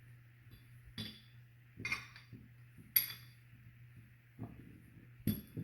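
Metal parts and tools being handled during leaf-spring bushing work: four or five short, sharp metallic clinks and knocks, the sharpest about three seconds in, over a steady low hum.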